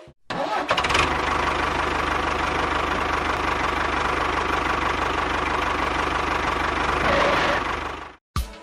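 A small engine running steadily, with a fast low pulse under a noisy hum. It starts just after the beginning and cuts off suddenly near the end.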